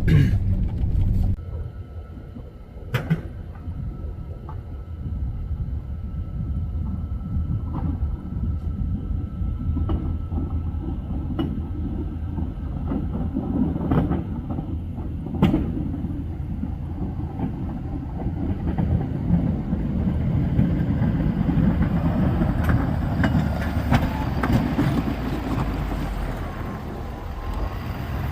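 Snowplow truck running under load while pushing deep, drifted snow, a steady low rumble broken by a few sharp knocks.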